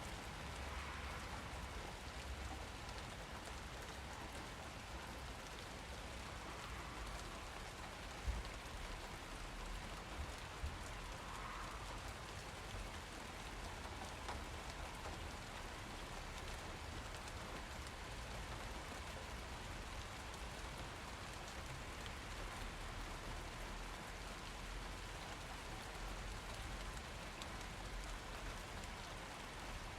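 Steady rain falling and pattering on surfaces, with a few louder single drips or knocks about eight and ten seconds in.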